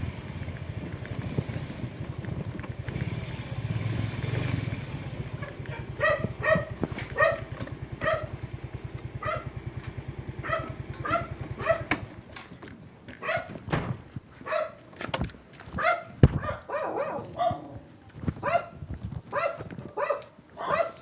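A dog barking over and over, a little under two barks a second at first and more irregularly later. Under the first part an engine idles steadily, then stops about twelve seconds in.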